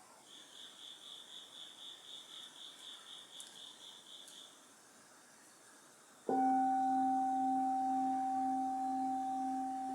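Autumn crickets chirping in an even pulsing trill, about five chirps a second, which stops about halfway through. Then a Buddhist bowl bell is struck once and rings on in two steady tones, one low and one higher, fading slowly: the bell that ends the zazen sitting.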